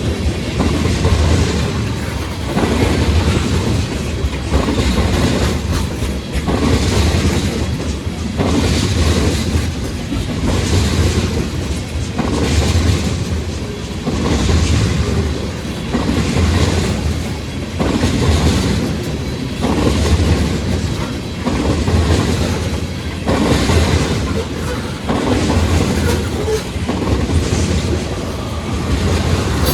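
Freight train cars rolling past: steel wheels clattering over the rail joints, the rumble swelling and fading in a steady rhythm about every one and a half to two seconds as each car goes by.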